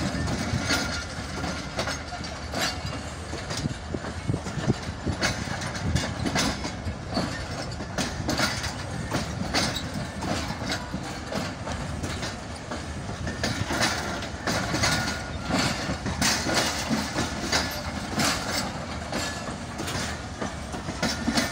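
Pakistan Railways passenger coaches rolling past at departure: a continuous rumble of the carriages, with repeated clicks and clacks from the wheels passing over the rail joints.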